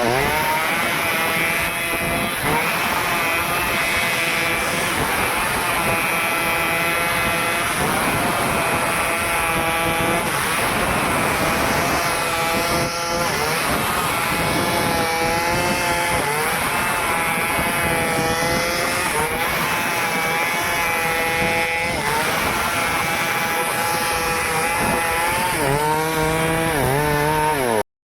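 Stihl chainsaw running at high revs while cutting through a tree, its engine pitch dipping and recovering as the chain bites into the wood.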